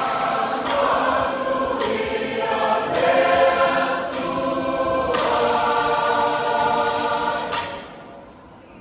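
Samoan church choir singing a hymn in harmony, with held chords that change every second or so and die away near the end.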